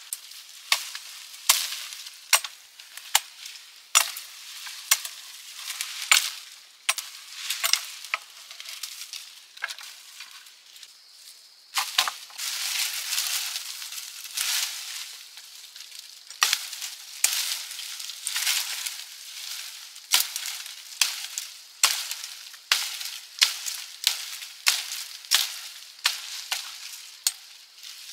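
Food frying in a hot pan: a steady sizzle, swelling for a few seconds about halfway through, with repeated sharp clicks and scrapes of a utensil stirring against the pan.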